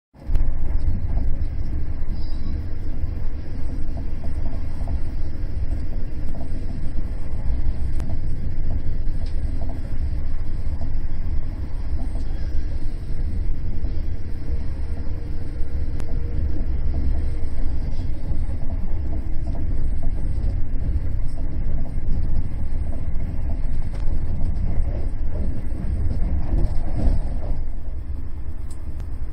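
Passenger train running at speed: a steady, loud low rumble of wheels on track and running gear, as heard aboard a coach.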